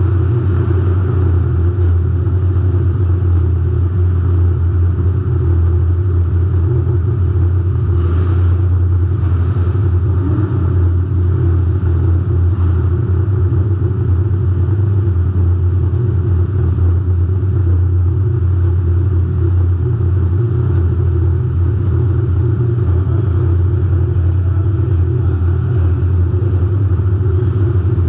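A demolition derby car's engine running steadily at a low, even speed, with a loud rumble heard close from a camera mounted on the car; there is no revving and there are no crashes.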